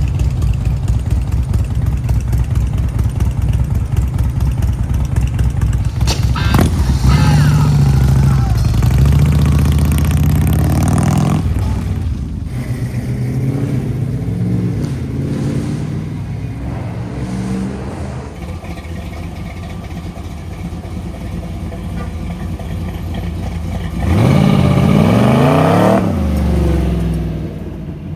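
Cars driving away one after another, engines running with a low rumble. One accelerates hard about six seconds in, and another revs up and back down near the end.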